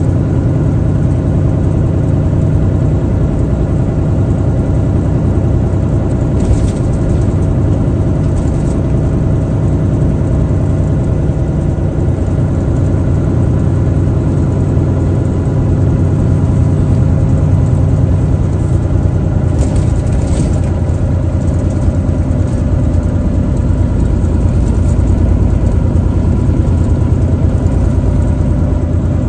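Truck engine running steadily under way, with road noise. A couple of brief rattles come through, about six seconds in and again about twenty seconds in.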